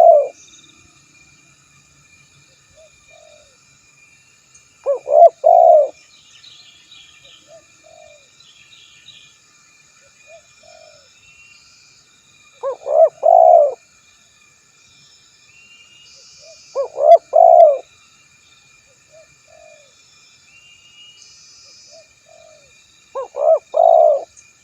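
Male spotted dove (tekukur) cooing: a three-note phrase, two short notes and a longer one, repeated about every four to seven seconds, with soft single coos between. It is the male's call to rivals, recorded for luring other doves. Faint high chirping and a steady high insect-like tone run underneath.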